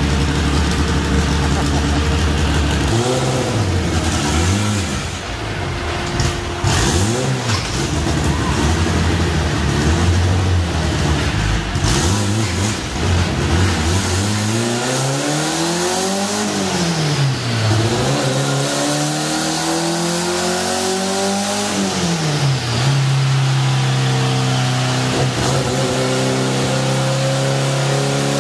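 1987 Volkswagen Jetta's turbocharged 2.0-litre methanol four-cylinder drag engine idling steadily, then revved in a series of quick blips. Two longer rises in revs follow, each falling back, and the engine settles into a steady, faster idle.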